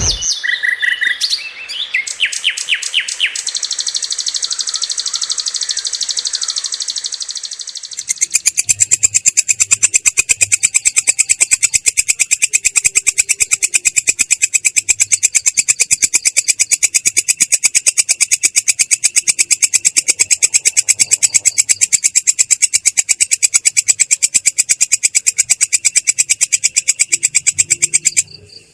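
Belalang kecek grasshopper stridulating in a continuous roll, with a clear yet rough tone. It begins with a few short chirps and a steady high buzz. About eight seconds in it breaks into a loud, fast, very even trill of rapid clicks that keeps going, dropping out briefly near the end.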